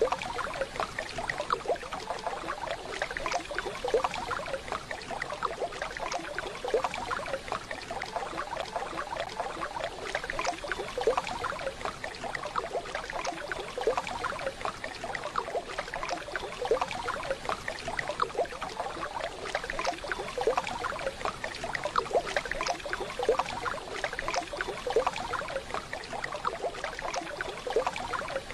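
Waterfall: running water splashing and babbling steadily.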